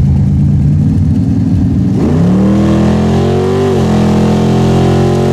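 A car engine running steadily, then about two seconds in it revs hard under acceleration with a rising pitch. The pitch briefly dips near the four-second mark, then holds high before falling off at the end. The engine is not yet warmed up.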